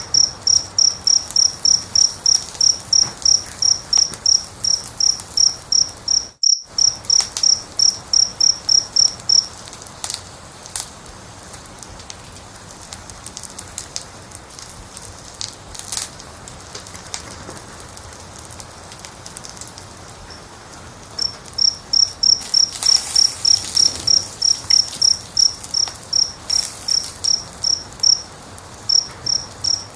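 A cricket chirping steadily, about four chirps a second. It stops for roughly ten seconds in the middle, then starts again. Underneath are the soft crackle and occasional sharp pops of a wood fire, and about six seconds in the sound cuts out for an instant.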